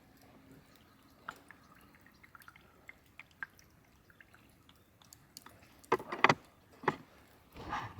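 Scattered light drips and ticks, then a few sharp knocks and clatters of camp gear being handled from about six seconds in.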